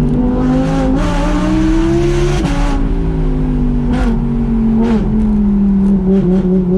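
Audi R8 V10 Plus's naturally aspirated V10, breathing through a Quicksilver titanium and stainless-steel exhaust, accelerating at full throttle. The note climbs and drops sharply at quick upshifts about a second and two and a half seconds in, gives two short cracks, then the revs ease down into a steady, warbling burble near the end.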